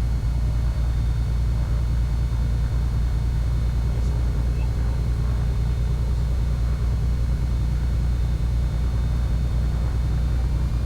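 Cessna 310Q's twin piston engines running steadily, heard as a loud even drone from the cabin. A faint rising whine starts near the end as power comes up for the takeoff roll.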